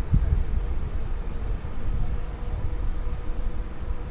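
Wind buffeting a helmet-mounted action camera's microphone with tyre rumble from a mountain bike riding over a rough road: an uneven low rumble with no distinct events.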